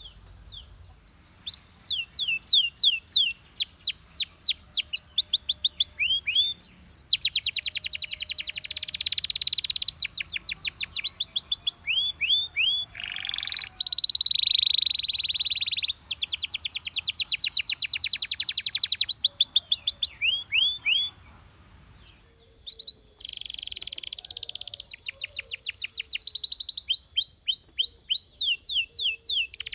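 Belgian canary singing: a run of fast trills, each a rapid string of identical high notes, switching to a new trill every second or two. The song breaks off for about two seconds around two-thirds of the way through, then resumes.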